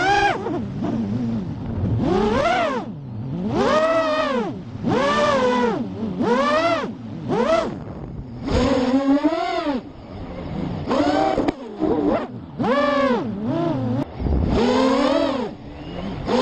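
A motor revving up and back down in quick swoops, about a dozen times in a row, each rise and fall lasting under a second.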